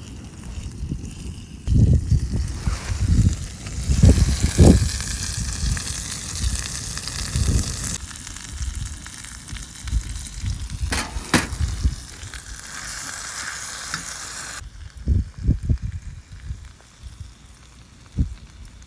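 Chicken thigh sizzling in an iron skillet over a wood fire. The sizzle swells up a few seconds in and cuts off suddenly about three-quarters of the way through, with low knocks and thumps throughout.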